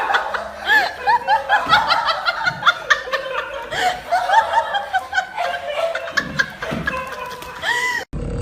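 A person laughing in a long run of high-pitched giggles, many short rising-and-falling notes, cut off abruptly near the end.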